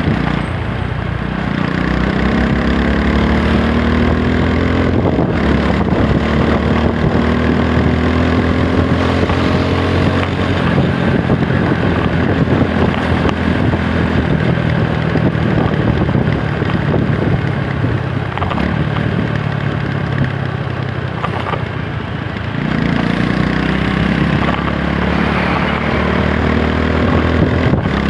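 TVS Apache 160 4V's single-cylinder engine pulling under way: its pitch climbs as it accelerates during the first ten seconds or so, runs fairly steady, then climbs again about 22 seconds in.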